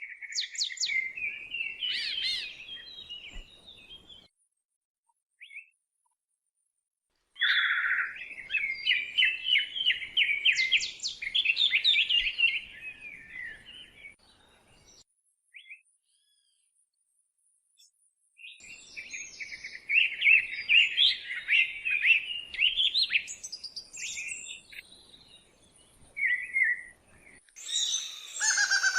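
A songbird singing long, rapid warbling phrases in three bouts of several seconds each, with quiet gaps between them. Near the end, other bird calls come in.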